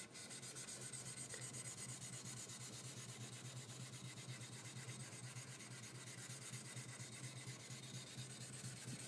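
The flat back of a high-speed-steel skiving knife being stroked back and forth on a 6000-grit water stone, making a steady, rhythmic scraping.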